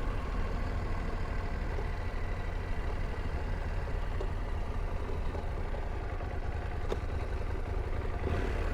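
KTM 890 Adventure R's parallel-twin engine running with a steady low rumble, with one sharp click about seven seconds in.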